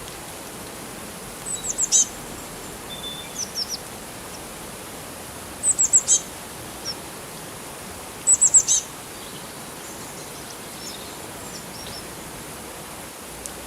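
Small bird calling in quick runs of four or five high, falling chirps, three times, with softer single notes between, over a steady hiss of running water.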